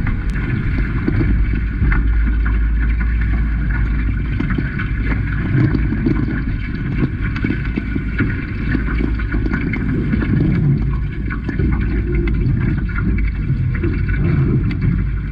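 Wind buffeting the microphone and water rushing along the hulls of a Hobie 16 catamaran under sail. The noise is steady and loud, with a heavy low rumble.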